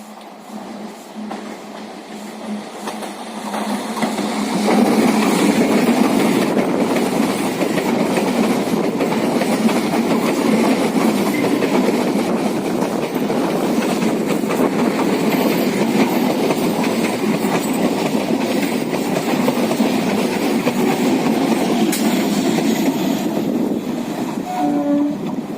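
Suburban electric local passenger train running past, its wheels clattering on the rails. The sound builds over the first few seconds as it arrives and then stays loud and steady, with a short horn note near the end.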